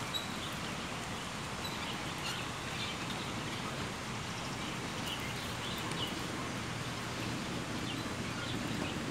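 Birds giving short, scattered chirps over a steady background hum of outdoor noise.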